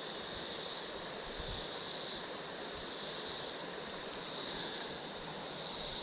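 Steady chorus of buzzing insects in summer, swelling and easing every second or two, over a low, even rush of creek water.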